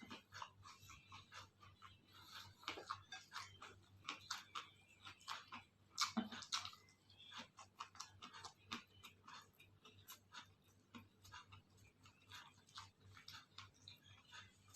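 Close-up chewing of food: irregular wet mouth clicks and crunches, with a louder crunch about six seconds in.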